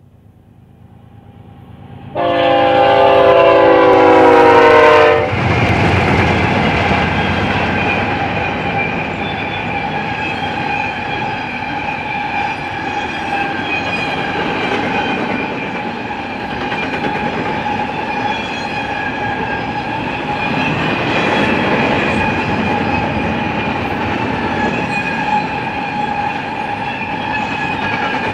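A GE ES44C4 diesel locomotive on a BNSF double-stack intermodal freight train blows its air horn about two seconds in: a loud chord of several notes for about three seconds, the usual warning at a grade crossing. It is followed by the long string of container cars rolling past with a steady rumble and clickety-clack, and a few steady high ringing tones over it.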